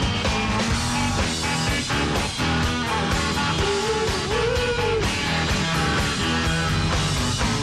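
Live rock band playing an instrumental passage, a guitar sounding bending notes about halfway through.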